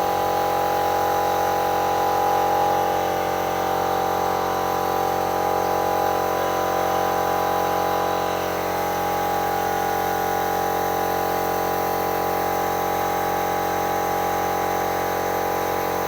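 Pressure washer pump running with a steady hum.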